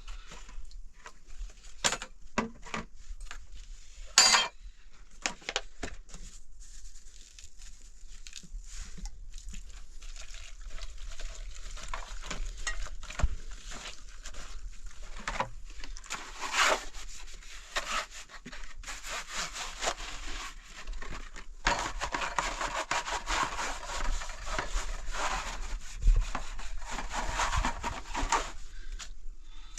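A few sharp knocks in the first seconds, then a long run of rasping, scraping noise that stops shortly before the end.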